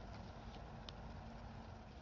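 Faint low background rumble with a couple of soft ticks.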